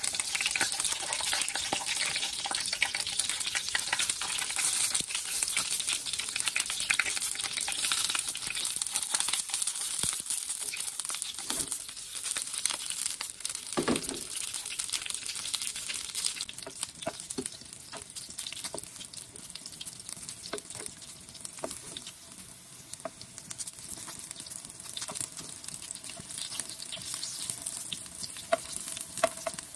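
Eggplant pieces sizzling as they fry in hot oil in a pan, loudest for the first half and settling to a quieter sizzle after. In the second half, light clicks of a wooden spatula turning the pieces.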